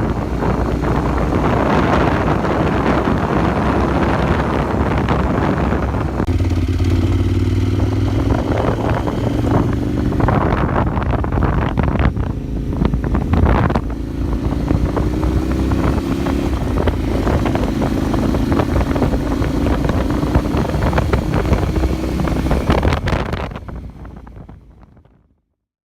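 KTM 990 SMR's V-twin engine running through an Akrapovič exhaust, its note mostly held steady with some rises and falls, with wind noise on the microphone. The sound fades away about two seconds before the end.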